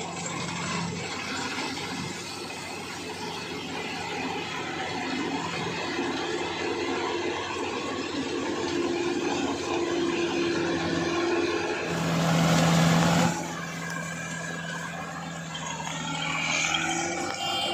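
Engine of a harvesting machine running steadily with a low hum, with a loud hiss lasting about a second and a half past the middle.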